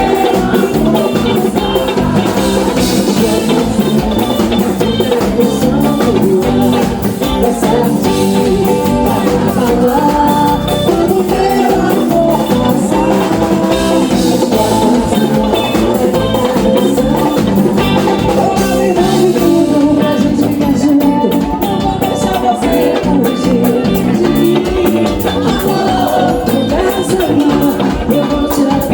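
Upbeat Brazilian axé music: a band with drum kit and guitar playing under a lead vocal singing.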